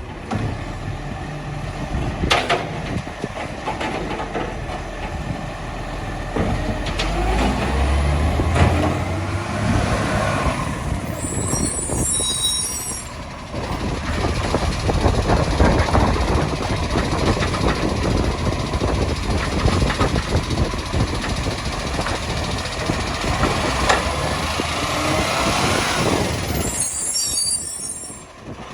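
Recycling garbage truck working at the kerb: diesel engine running under load with the whine of its hydraulics rising and falling, a few knocks, and short hisses of the air brakes about twelve seconds in and near the end.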